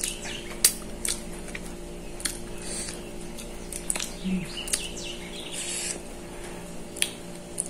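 Close-up eating sounds of a person chewing food eaten by hand: several sharp mouth clicks and lip smacks over a steady low hum.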